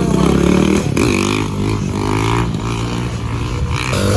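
A motor vehicle's engine running close by, its pitch rising about a second in as it pulls away, with faint voices in the background.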